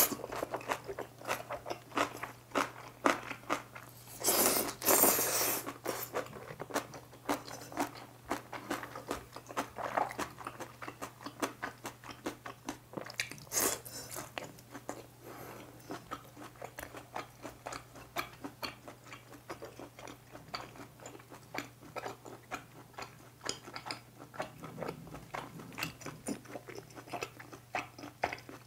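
Close-miked eating of Chapagetti noodles and beef: a steady run of wet chewing, lip smacks and mouth clicks, with a couple of longer slurps about four to five seconds in.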